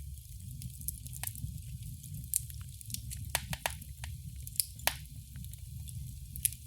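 Wood fire crackling in a fireplace: a steady low rumble of burning, with irregular sharp pops and snaps, several of the loudest coming between about two and five seconds in.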